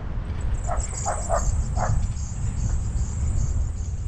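Wind buffeting the microphone as an e-bike rides along, a steady low rumble, with four short animal calls about a second in and a high insect drone above.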